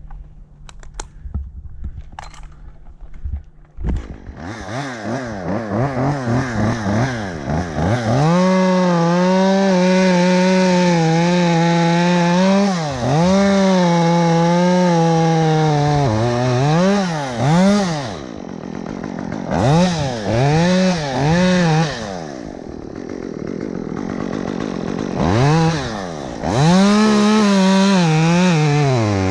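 Chainsaw starting up about four seconds in, then revving repeatedly between idle and long stretches at full throttle while chunking a tree down, with a few brief drops and blips of the throttle between cuts.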